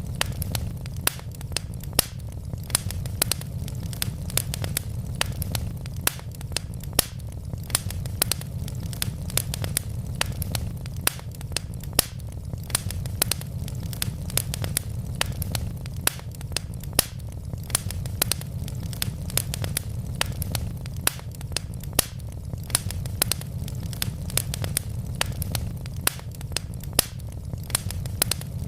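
Wood fire crackling: frequent sharp pops and snaps, several a second, over a steady low rumble of the burning logs.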